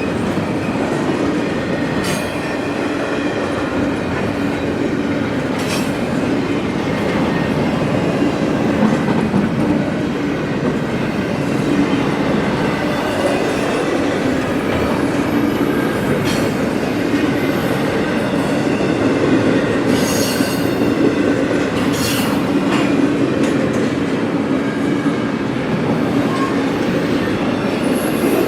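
CSX freight train cars rolling past: a steady loud rumble of steel wheels on rail, with faint wheel squeal and a few sharp clicks and clanks scattered through it.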